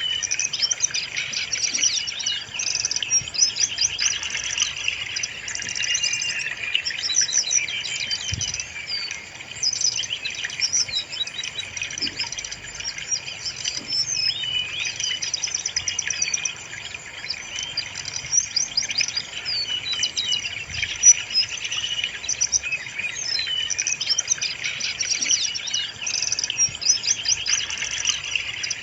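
Brown-chested jungle flycatcher singing: a steady, unbroken run of fast, high chirps and trilled phrases, played as a lure call to get kept birds singing.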